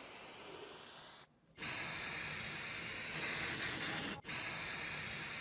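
A steady spraying hiss, broken by a short gap about a second in and a brief break just past four seconds, and louder after the first gap.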